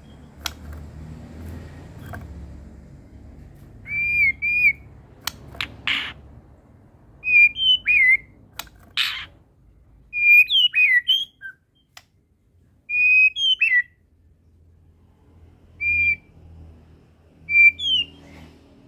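White-rumped shama (murai batu) singing: short, clear whistled phrases with quick up-and-down slides, in bursts every second or two, mixed with several sharp clicking notes.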